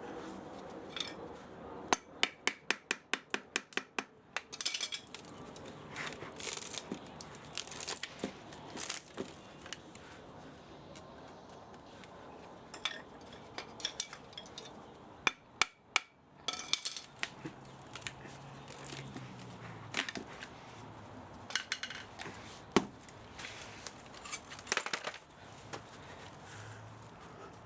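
Hand tools working on the metal of an old spa motor being stripped for scrap: a quick run of sharp metallic taps about two seconds in, then scattered clinks, knocks and scraping.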